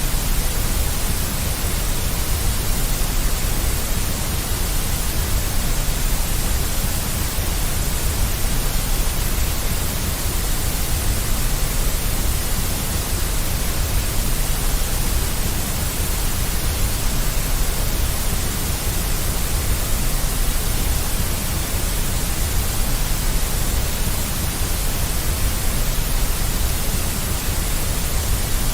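Deep white noise: a steady, unchanging hiss with a strong low rumble underneath.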